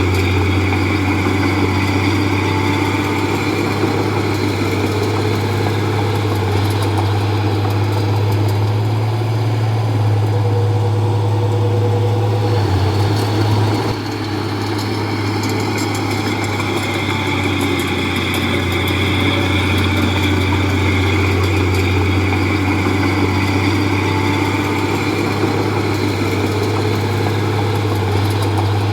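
Heavy diesel engine of a Komatsu D31P bulldozer running steadily, with a short drop in level about halfway through.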